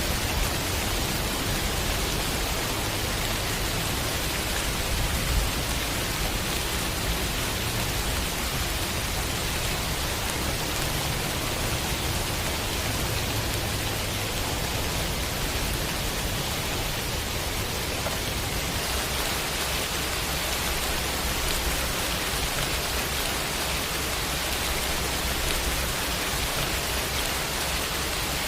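Heavy rain falling steadily, an even hiss of many drops. A low rumble runs underneath and fades out about two-thirds of the way through.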